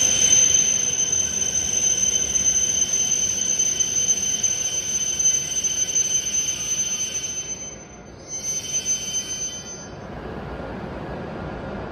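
E7/W7-series Shinkansen train pulling into a station platform and slowing to a stop, its rumble carrying a steady high-pitched whine. About ten seconds in, the sound drops to a quieter steady hiss.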